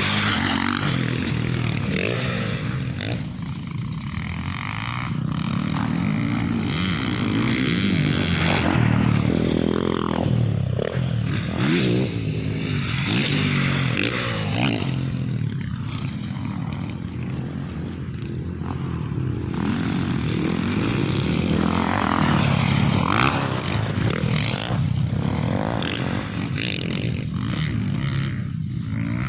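Off-road motorcycle engine running while riding a dirt trail, its pitch and loudness rising and falling as the throttle opens and closes, with rattling and scraping over rough ground.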